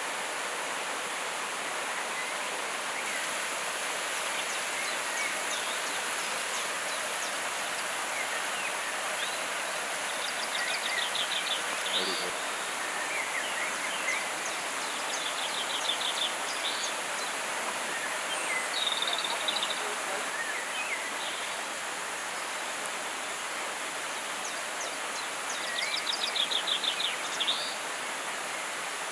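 Steady rush of a flowing river, with forest birds calling over it: a fast, high trill repeated four or five times and scattered short chirps.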